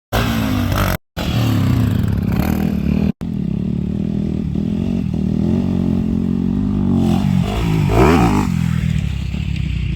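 Motorcycle engine running and revving, broken by two brief cut-outs about one and three seconds in. Near the end the engine pitch dips and then climbs again sharply.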